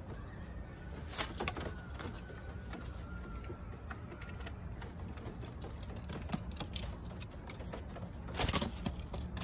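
Pigeons scuffling in a loft cage: scattered taps and scrapes, with a louder burst of scuffling about eight and a half seconds in.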